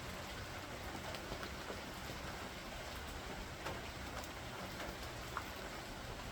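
Steady rain from a thunder shower, with a few separate drops ticking sharply now and then.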